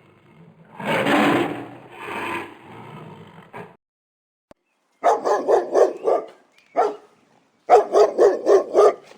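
A rushing, scraping noise for about three seconds, then a short silence, then a dog barking in two quick runs of short, high yaps, about four a second, with a single bark between the runs.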